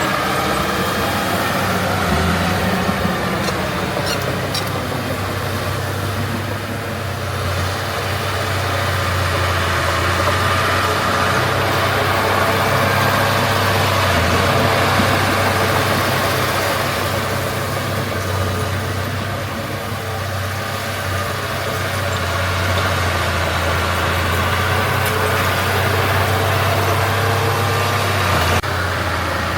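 Heavy diesel engine of earthmoving machinery running steadily under working load, easing off slightly twice and picking up again.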